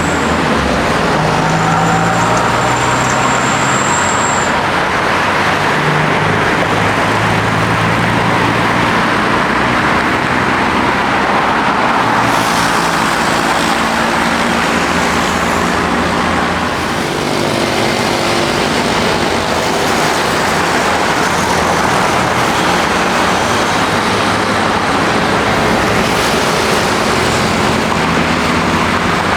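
Jet airliner engines, a loud, steady rush of noise with a low hum underneath and a thin high whine near the start.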